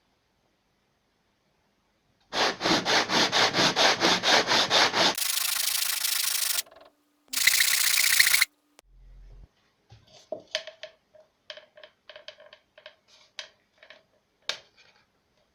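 Wood being worked by hand: rapid regular back-and-forth strokes, about four a second, then two steady rubbing passes, followed by scattered light knocks near the end.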